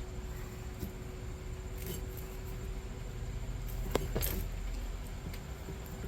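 A few light metallic clicks and a short jingle of propane hose fittings being handled and screwed together, the sharpest click about four seconds in, over a low steady rumble.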